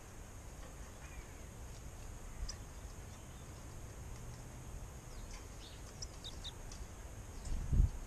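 Small garden birds giving short, faint, high chirps in a few scattered clusters over a low rumble, with a low thump near the end.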